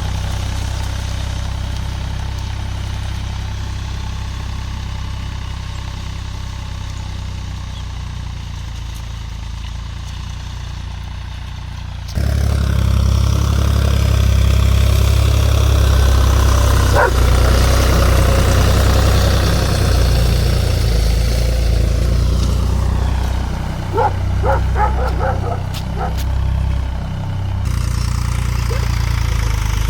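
Tractor engine running steadily. About twelve seconds in it suddenly gets louder and deeper, and it stays at that level apart from a few short dips near the end.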